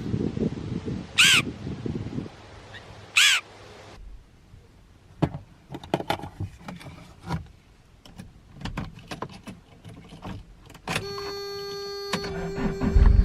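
A bird calling twice, two loud harsh calls about two seconds apart, over a low rumble. Scattered clicks and knocks follow, and near the end a steady hum sets in.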